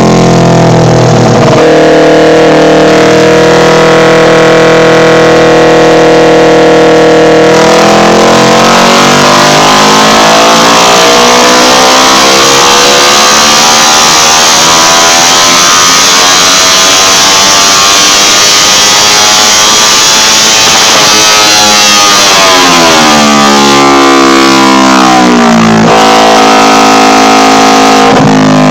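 Kawasaki Ninja 250 parallel-twin engine with a Totsubo exhaust, very loud, on a dynamometer run. It holds steady revs for several seconds, then goes to full throttle with the revs climbing steadily for about thirteen seconds, drops back as the throttle closes, and settles lower near the end.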